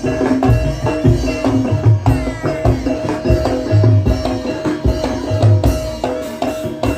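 Gamelan music accompanying an ebeg (kuda lumping) dance: quick, steady hand-drum strokes over ringing, sustained tones from tuned metal instruments.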